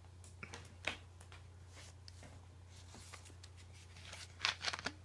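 Faint rustling and clicking handling noises over a low steady hum, with a short cluster of louder rustles near the end.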